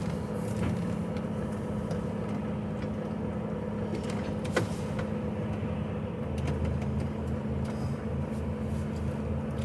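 HGV truck's diesel engine running steadily, heard from inside the cab, its note growing fuller about six seconds in. A single click sounds about halfway through.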